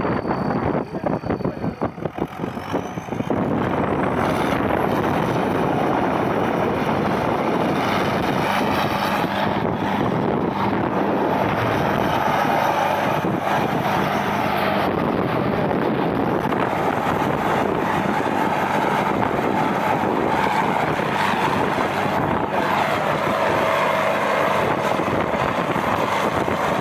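Tractor engine running steadily, choppy for the first few seconds, then even.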